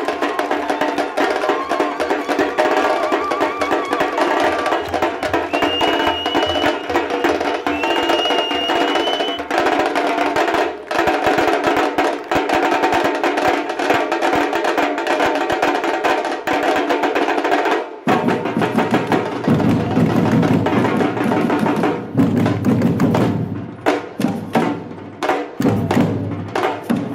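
Batucada samba percussion group playing a dense, driving rhythm with clacking wood-block-like strokes. A high sliding tone sounds twice in the first third, and deep bass drums come in about two-thirds of the way through.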